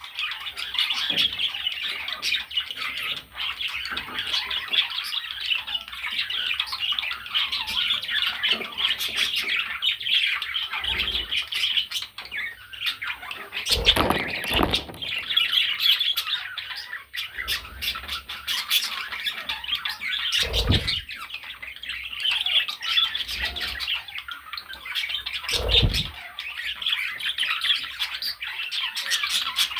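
Budgerigar chattering continuously in a fast, high run of calls, with a few dull low thumps now and then.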